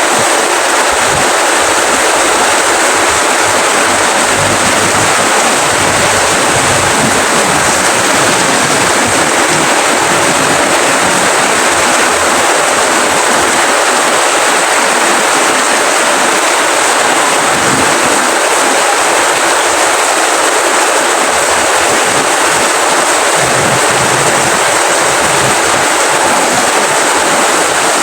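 Steady rain, an even hiss of falling drops with no single drops or thunder standing out.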